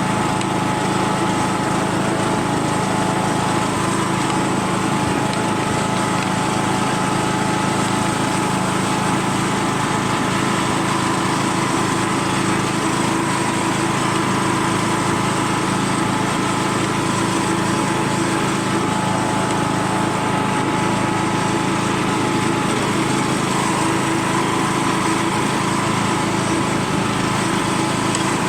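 John Deere tractor's engine running at a steady speed.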